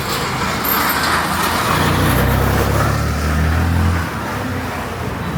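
Street traffic noise, with a motor vehicle's engine running close by, its low drone strongest from about two to four seconds in.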